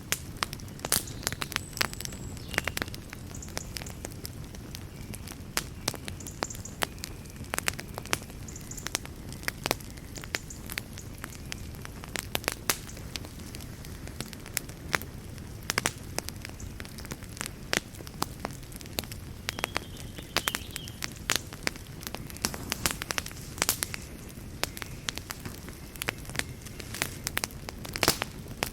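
Wood fire burning in a fireplace: a steady low rumble of flames with frequent sharp, irregular crackles and pops of burning wood.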